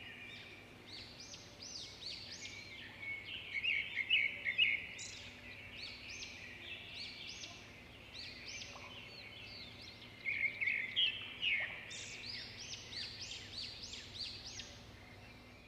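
Small birds chirping in quick, repeated calls, with louder stretches of twittering about four seconds in and again around ten to twelve seconds in.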